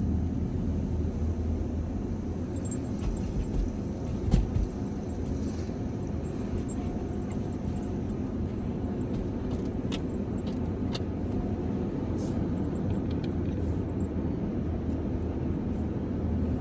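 A car's engine running with a steady low hum, with scattered small clicks and a single louder knock about four seconds in.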